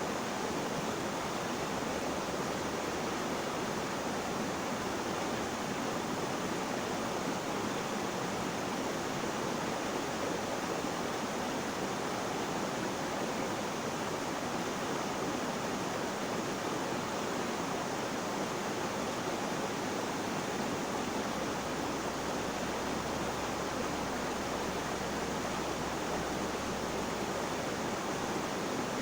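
Flowing water rushing steadily, an even hiss with no separate splashes or drips.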